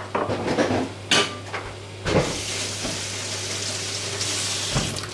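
Kitchen clatter: a few sharp knocks of pans or utensils, with a steady hiss through the second half.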